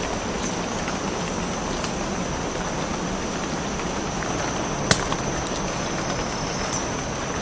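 Cloud forest ambience: a steady hiss with a thin, steady high tone over it, like an insect's drone, and one sharp click about five seconds in.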